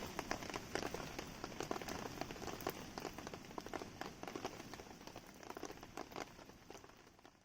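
Rain falling steadily with dense, irregular drop impacts, mixed with a wood campfire crackling. The whole sound fades out gradually toward the end.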